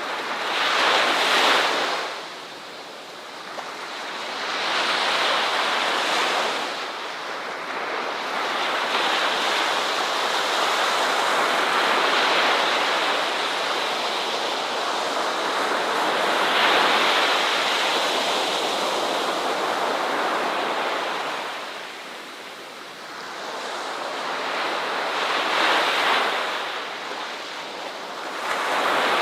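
Ocean surf breaking on a shore, a wash of noise that swells and recedes every few seconds, with one long sustained rush in the middle.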